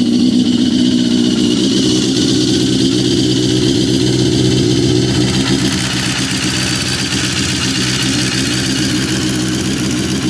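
Honda CBR954RR inline-four engine running steadily, with a noise that the owner takes for piston slap.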